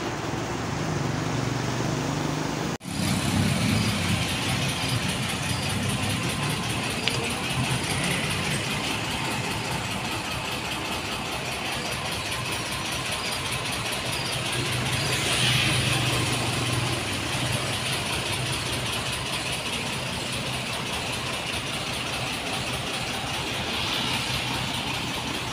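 Heavy diesel engine running steadily with a low, even note. It cuts out for an instant a little under three seconds in, and swells slightly in level about two-thirds of the way through.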